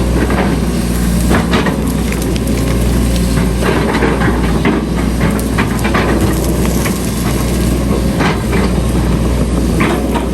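Heavy earthmoving machinery running: a steady diesel engine drone with irregular clanks and knocks scattered through.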